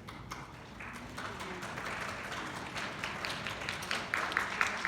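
Audience applause that swells from about a second in, with individual sharp hand claps standing out in the second half.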